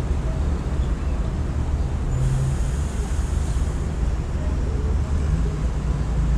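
Steady low rumble of city traffic. About two seconds in, a high, thin hiss sounds for about a second and a half.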